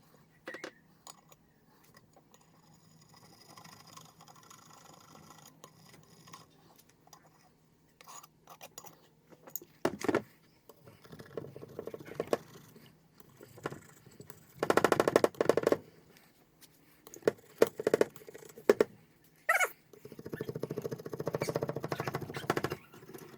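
Gasket scraper working old gasket material off a Kawasaki EX250 motorcycle engine case, in intermittent bursts of rapid scraping strokes with scattered clicks and knocks between them.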